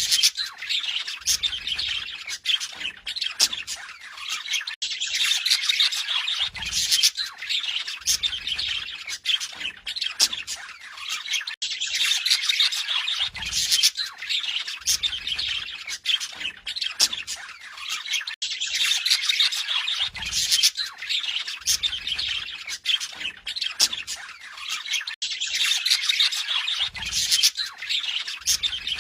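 Budgerigars warbling and chattering, a fast run of squawks, chirps and clicks. The same few seconds of chatter repeat about every seven seconds.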